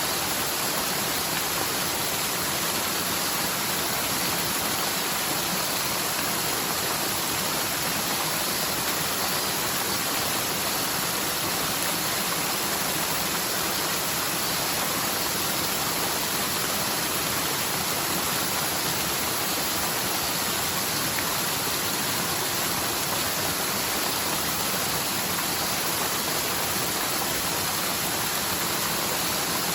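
Rain-swollen forest stream rushing down the mountainside in a steady, even rush of water.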